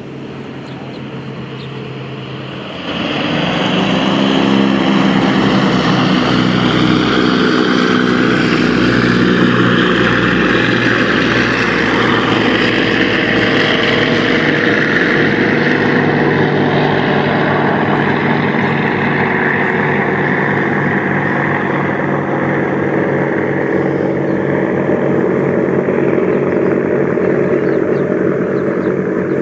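Propeller engines of a firefighting seaplane scooping water from a reservoir, a steady droning run over a wide hiss. It turns much louder about three seconds in and stays loud.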